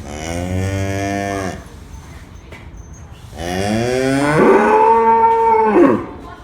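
Cow mooing twice: a first moo of about a second and a half, then a longer, louder moo that rises in pitch partway through and holds.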